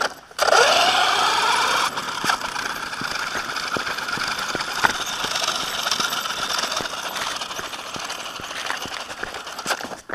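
Small two-stroke nitro glow engine of a 1/8-scale RC monster truck. It revs up in a rising whine for about a second and a half, drops off sharply, then runs on steadily with scattered clicks and crackles.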